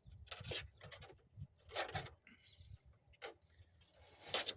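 A few short, irregular scraping and rustling sounds as electrical wires are handled and pushed through a hole in the truck body.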